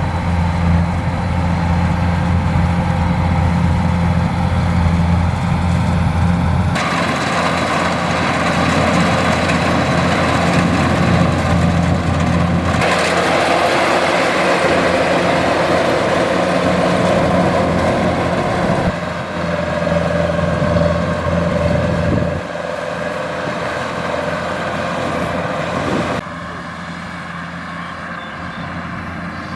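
Kubota DC105X combine harvester's diesel engine and threshing machinery running steadily while harvesting rice. The tone changes abruptly every several seconds, and the sound is somewhat quieter near the end.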